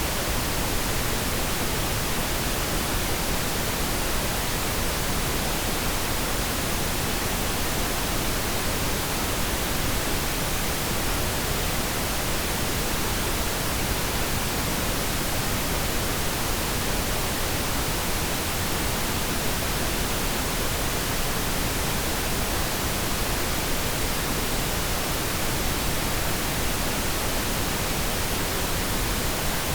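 Steady generated pink noise: an even, unchanging hiss spread across all pitches.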